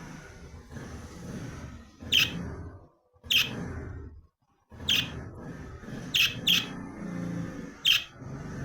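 A bird giving short, sharp single chirps every second or so, six in all, over a low background rumble, with two brief cuts to silence.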